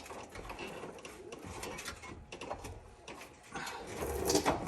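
Scattered metal clinks, knocks and rattles of a steel cross member being worked into place under a truck, louder near the end.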